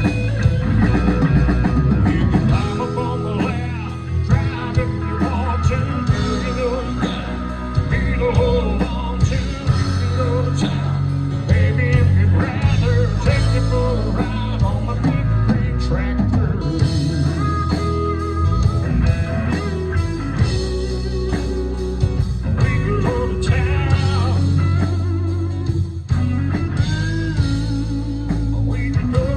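Band playing a country-rock song, with electric guitar, bass and drums.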